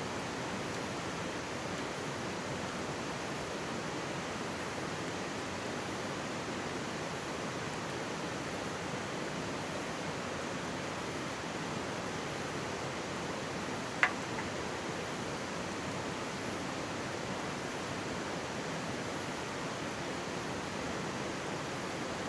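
Steady rush of a mountain stream flowing close by, with a single sharp pop from a wood campfire a little over halfway through.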